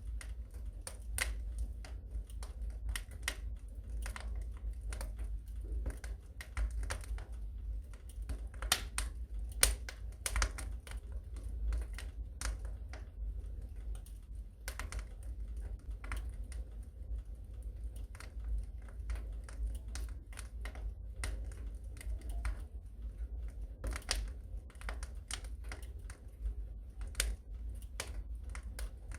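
Wood fire crackling in a fireplace: irregular pops and snaps over a low steady rumble.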